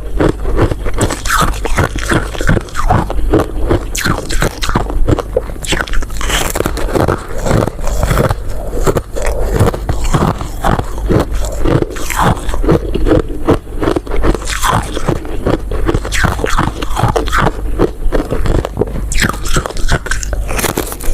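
Close-miked eating of a dessert: rapid, crunchy bites and chewing, made of many dense crackles and scrapes with no pauses.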